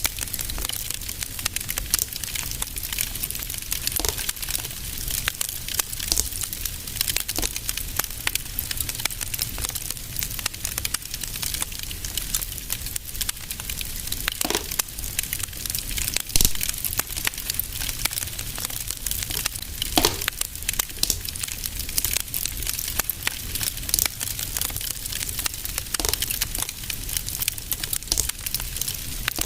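Fire in a fireplace crackling steadily: a dense hiss of small crackles with scattered sharper pops and snaps, over a low steady rumble.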